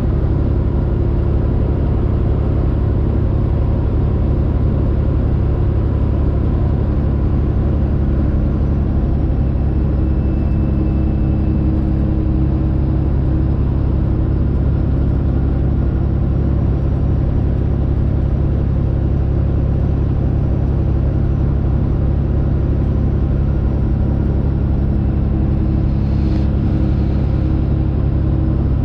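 Straight-piped Detroit Diesel engine of a Freightliner Classic XL semi truck running loud and steady at cruise, a deep, even drone that barely changes pitch.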